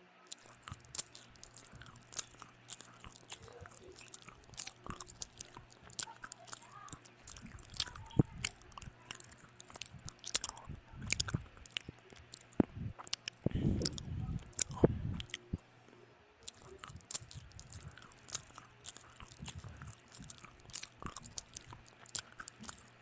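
Close-miked chewing and biting as a person eats a breakfast of rice, hotdog and fried meats, with many small sharp mouth clicks throughout. A louder stretch of chewing comes a little past halfway through.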